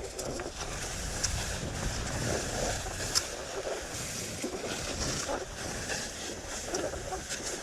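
Skis sliding and scraping over snow, with a few brief sharper scrapes, under a steady low rumble of wind buffeting the chest-mounted camera's microphone.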